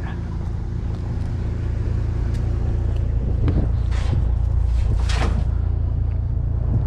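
Pickup truck's engine and road noise while driving, a steady low hum, with two brief swishes about four and five seconds in.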